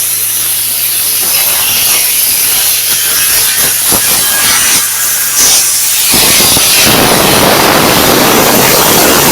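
Compressed air hissing steadily from an air carbon arc gouging torch, over a steady low hum, with a few short pops. About six seconds in the arc is struck and a louder, fuller gouging noise takes over.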